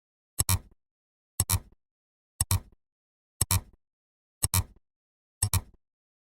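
A short double-click sound effect repeated once a second, six times: each time two sharp clicks about a tenth of a second apart, with silence between.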